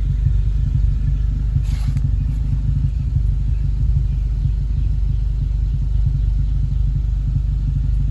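Mk7 VW GTI's turbocharged 2.0-litre four-cylinder running through an AWE Touring catback exhaust: a steady low exhaust rumble with gurgling, and one short sharp pop about two seconds in from its pops-and-bangs stage 2 tune.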